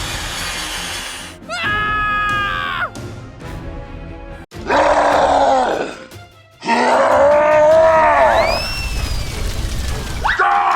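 A string of cartoon sound effects: a short pitched tone that bends down at its end, bursts of noise, and two drawn-out groaning, voice-like sounds, the second followed by a thin whistle that slides up and back down.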